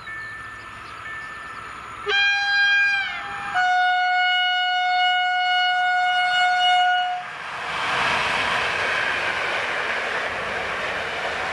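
EN57AKŁ electric multiple unit sounding its horn: a short, higher note that falls as it ends, then a longer, lower note held for about three and a half seconds. The train then passes close by with the steady noise of its wheels on the rails.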